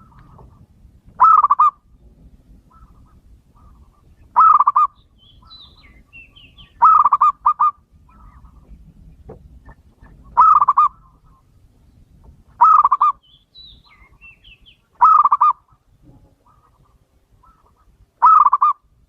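Male zebra dove (perkutut) cooing: short rapid phrases repeated about every two to three seconds, seven times, one of them doubled. Faint high chirps from another bird sound between the phrases.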